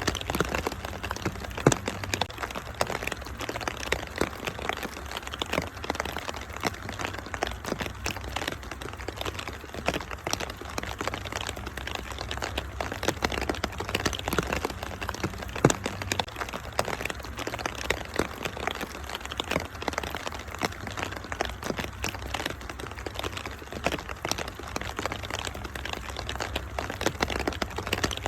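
Wood fire in a fireplace crackling, with dense, irregular sharp pops and snaps, mixed with steady rain and a low, even rumble underneath.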